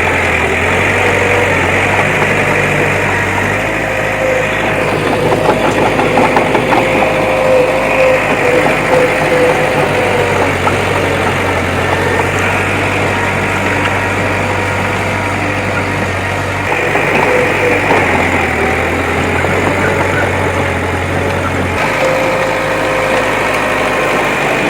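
Bulldozer's diesel engine running steadily, its low note shifting several times as the load changes.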